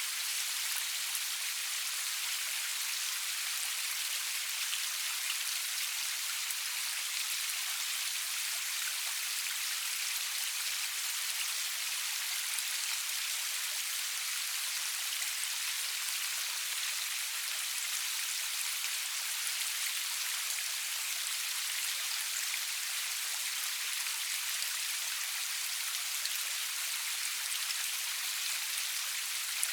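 Steady rain falling, a dense even hiss of drops with fine patter, no thunder.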